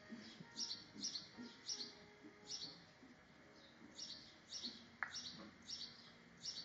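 Small birds chirping: short, high chirps about two a second, with a brief pause midway.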